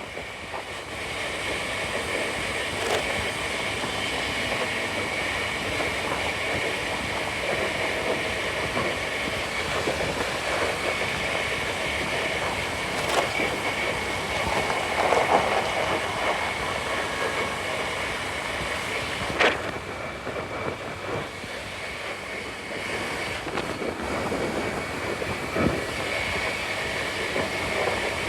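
Steady riding noise from a scooter moving through city traffic, with a few short, sharp knocks scattered through it.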